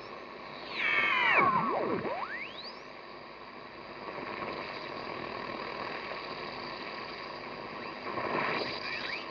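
Shortwave static from a Grundig Yacht Boy portable radio, with single-sideband signals heard through it: about a second in a whistling signal sweeps down in pitch and another rises again, then steady hiss, and garbled sideband voice returns near the end.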